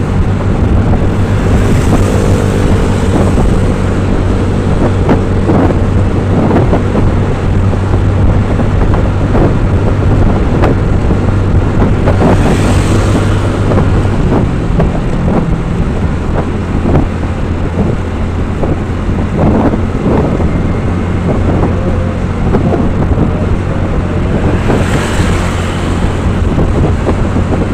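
Motor vehicle engine running steadily on the move, its hum shifting in pitch about halfway through, with wind buffeting the microphone. Three brief rushes of hiss come about 2, 12 and 25 seconds in.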